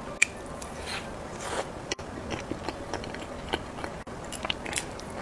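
Close-miked mouth sounds of a person biting and chewing a bite-sized cheese ball: short, irregular clicks and smacks scattered throughout, the sharpest about a quarter second in.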